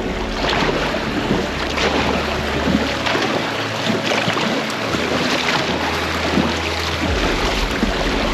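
Kayak paddles dipping and splashing in the water, with wind buffeting the microphone.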